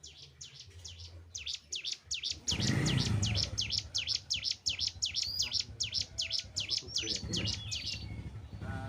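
Ciblek gunung (cigun) song: a fast run of sharp, high, downward-sweeping chirps, about six a second, starting about a second and a half in and stopping near the end. A low rumble rises under the song about two and a half seconds in.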